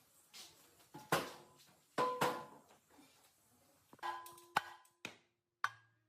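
About seven sharp knocks on metal, irregularly spaced, several leaving a short ringing tone.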